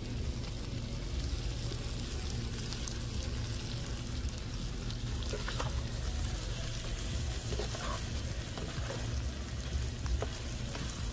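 Diced sheep offal curry sizzling steadily in a large pan over a wood fire, with a spoon stirring it, over a low steady rumble.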